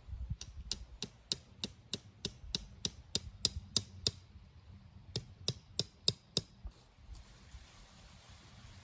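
Hammer driving a tent peg into the ground: about a dozen sharp, evenly spaced strikes at roughly three a second, a short pause about four seconds in, then five more strikes.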